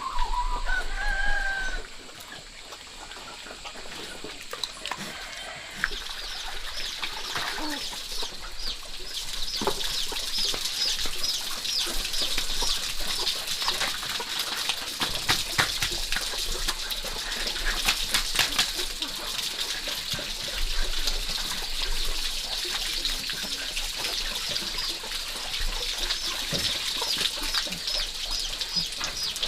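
Farmyard chickens clucking, with a loud gliding call in the first two seconds. From about six seconds a steady high-pitched buzz builds underneath.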